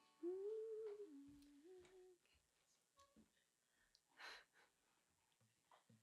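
A woman softly hums three notes: a short upward slide onto a held note, a lower note, then a step back up, giving the starting pitch for an a cappella song. About four seconds in there is a brief soft breath.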